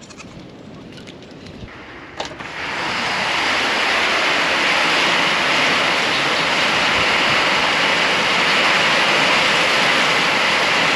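Storm noise: a quieter background, then a click about two seconds in and a loud, steady rushing noise of the storm that holds without a break.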